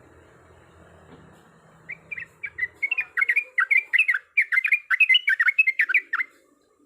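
Yellow-vented bulbul (trucuk) singing a fast, chattering run of chirped notes that starts about two seconds in, grows denser and stops about a second before the end.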